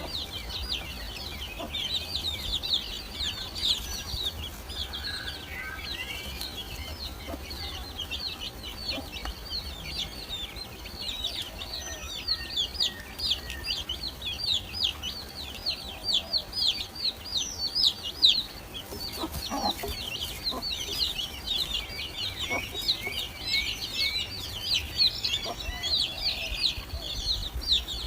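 Great tit nestlings begging in the nest: a continuous chorus of rapid, high, thin chirps, about five a second, each a short falling note.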